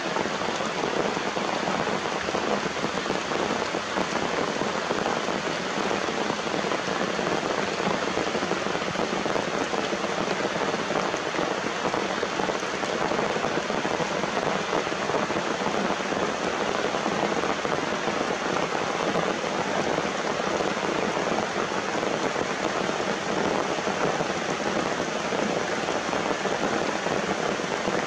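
Steady rain falling and pattering on surfaces, an even unbroken hiss.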